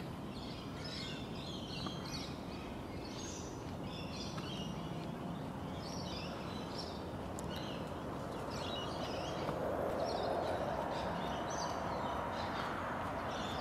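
Birds chirping in short repeated phrases every second or two, over a steady outdoor background noise that swells around ten seconds in.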